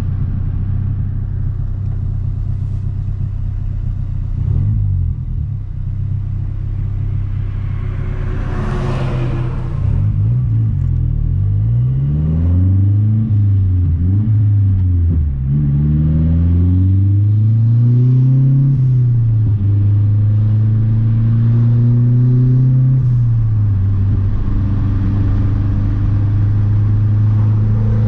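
Turbocharged 2.3-litre four-cylinder of a 2012 Mazdaspeed 3 under way. It holds a steady drone for the first ten seconds, with a brief rushing swell about nine seconds in. Then the revs climb and drop several times before settling into a steady cruise.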